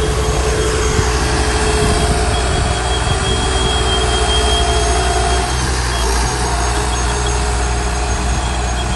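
Heavy diesel earthmoving machine running steadily, a deep engine note with a thin steady whine over it.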